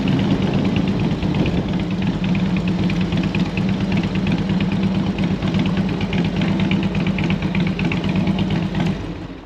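Harley-Davidson Road King V-twin engine running with a lumpy, fast ticking beat through its fishtail exhaust. The sound drops off sharply near the end.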